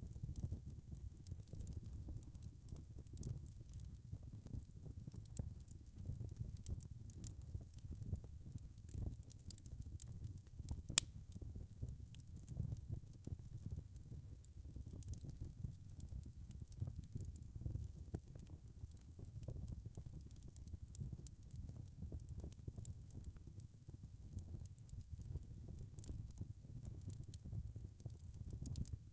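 Wood fire burning: a low steady rumble with frequent small crackles and pops, and one sharper pop about eleven seconds in.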